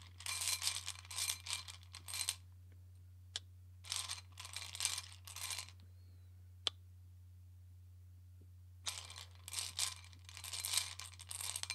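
Tarot cards being shuffled and handled: three spells of rustling and riffling, with a few sharp taps in between.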